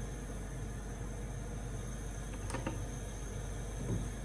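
Steady background hum and hiss, with a faint light clink a little after halfway.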